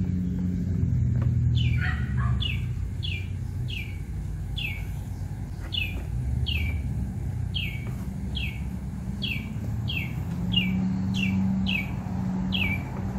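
A bird outdoors repeats a short clear note that slides downward, about two a second, starting about a second and a half in, over a low steady hum.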